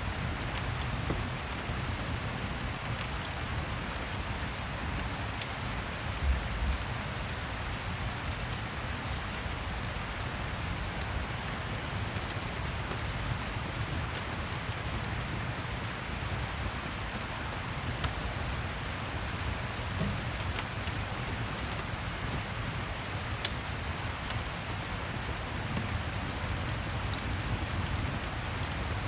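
Steady rain with a low rumble underneath and occasional faint crackles from a fireplace. A single low thump about six seconds in.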